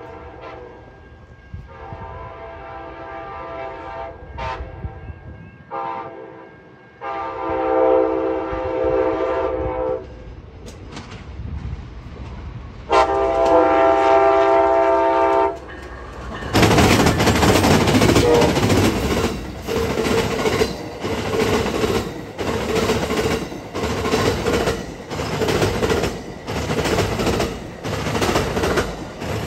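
Amtrak Siemens Charger diesel locomotive sounding its horn in four blasts as it approaches: the second is short, the last two are the longest and loudest. From about halfway through, the train passes close by, loud and rolling, with the wheels clattering over the rail joints about once a second as the cars go past.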